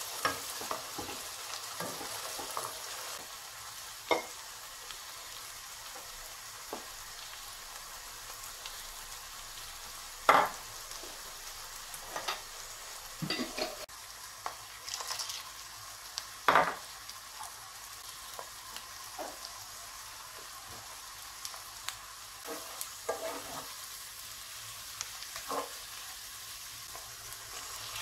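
Onions and ground spices sizzling in butter in a wok, with a wooden spatula stirring and scraping through them. A steady hiss runs under scattered short knocks of the spatula against the pan, the loudest about ten and sixteen seconds in.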